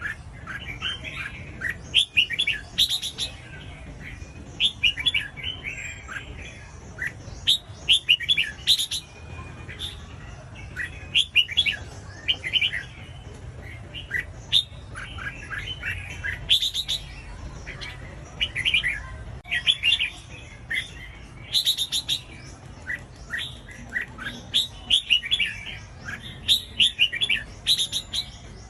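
Red-whiskered bulbul singing: short phrases of quick, bright chirping notes, one phrase every second or two.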